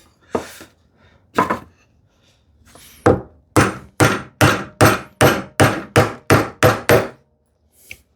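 Mallet blows on the handle of a bevel-edge chisel chopping a mortise into a wooden leg. A few spaced strikes come first, then a steady run of about ten quick blows, roughly two and a half a second, that stops near the end.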